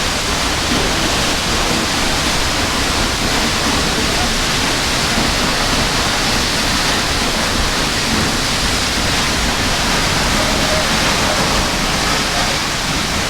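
Waterfall: the steady, loud rush of falling water, an even unbroken noise.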